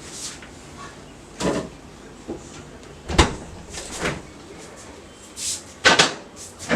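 Several separate knocks and clunks a second or two apart, the loudest a close pair about six seconds in, with a brief hiss just before them.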